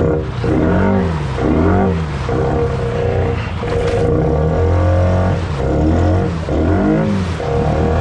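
ATV engine revving in repeated surges, its pitch rising and falling about once a second, with a steady lower engine drone underneath.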